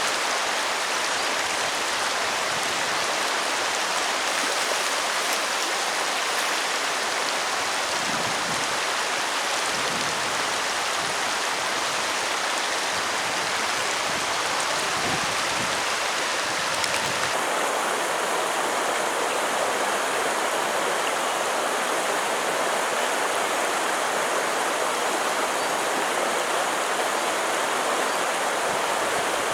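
Steady rushing of flowing water, an even hiss with no single events. Its tone shifts slightly a little past halfway.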